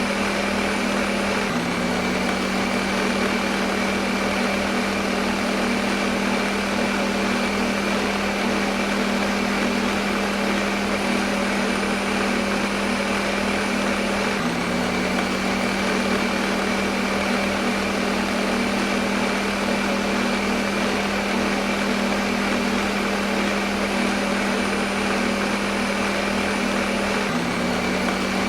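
Kitchen blender motor running continuously, a steady whirring hum over a rushing noise, with a slight shift in pitch about every thirteen seconds.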